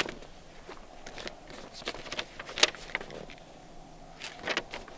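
A rumpled paper letter being unfolded and handled: faint crinkling and rustling, with a sharper crackle about two and a half seconds in.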